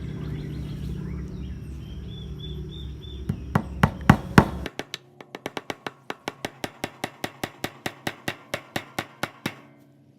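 A hammer driving fence staples into a wooden frame to fix wire mesh: a few loud blows about three to four seconds in, then a quick run of evenly spaced taps, about four a second, that stops shortly before the end.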